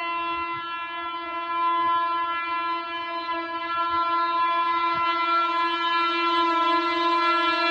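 Indian train horn sounding one long, steady note, slowly growing louder.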